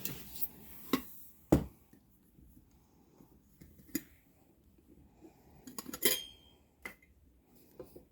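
Gear being handled while a bug out bag is unpacked: scattered knocks and clinks, the loudest a thud about a second and a half in and a clink that rings briefly about six seconds in.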